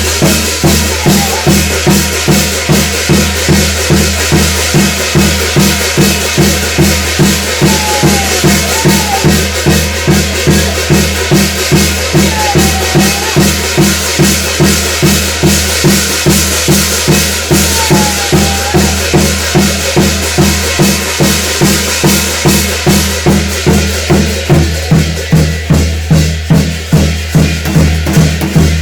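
Korean shamanic gut ritual music: drums and cymbals played in a steady, fast, driving beat.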